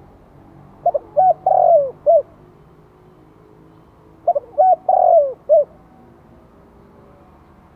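Spotted dove cooing: two song phrases about three and a half seconds apart, each a few short notes, a long falling coo and a short final note.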